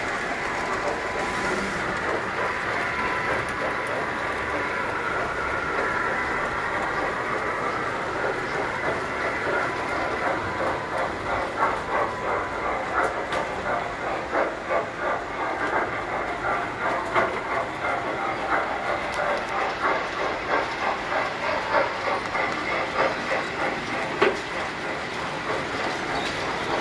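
Tinplate toy trains running on the layout: metal wheels clicking rapidly over the track, more plainly from about ten seconds in, over a steady motor whine, with one sharper click near the end.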